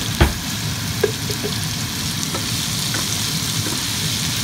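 Pork and sliced peppers and onions sizzling in a frying pan as a wooden spatula stirs them, with one knock near the start.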